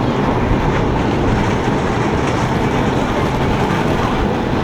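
Rhaetian Railway train running: a steady rumble of wheels and running gear on the rails.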